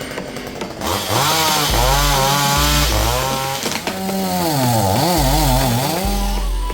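Two-stroke chainsaw revving, its engine pitch rising and falling repeatedly as the throttle is worked.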